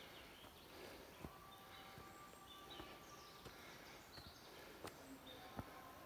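Near silence with faint bird calls and a few soft knocks.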